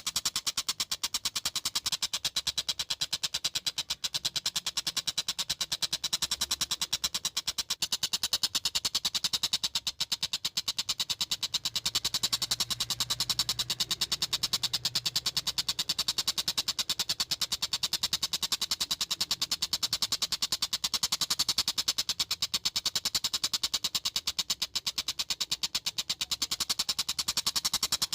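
Tengkek buto kingfisher calling in a continuous, very fast rattle of many sharp notes a second, the train-like chatter for which the bird is known.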